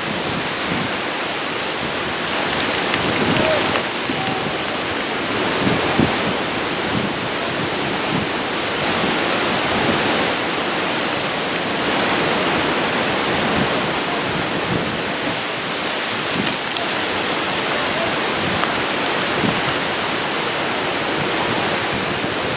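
Heavy rain pouring down in a violent thunderstorm, a loud, steady rush that swells a little now and then. The storm is one the uploader takes for a microburst.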